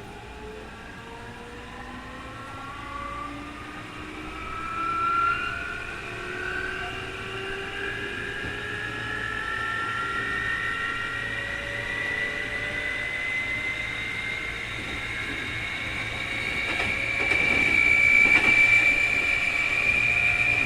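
Keikyu 2000 series electric train's field-chopper traction motors whining as the train accelerates, several tones rising steadily in pitch together. This is the strong 'jet sound' whine of this unusually noisy car. The rumble of the wheels on the rails grows louder near the end.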